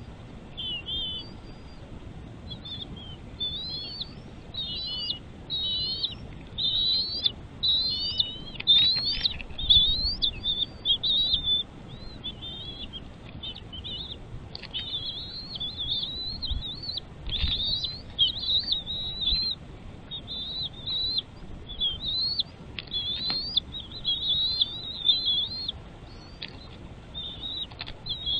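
Birds chirping: a fast, near-continuous run of short, high chirps and squeaky notes sweeping up and down, with a few brief pauses.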